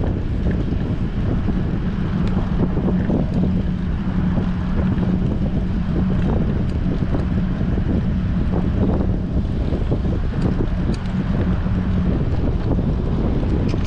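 Strong wind buffeting an action camera's microphone on a moving bicycle, a steady, fluttering rush with a low hum underneath.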